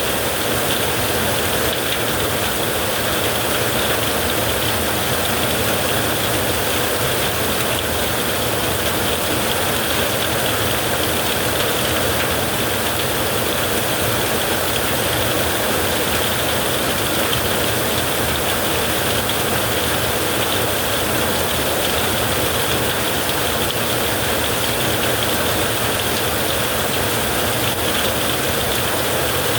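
Heavy rain falling steadily, an even rushing noise with no thunder clap or change in level.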